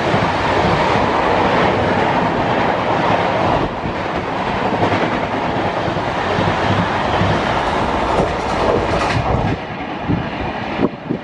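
An express train of coaches rushing past at high speed with a loud, steady rumble and rush of wheels and air. Toward the end the wheels clack over rail joints and the noise eases off.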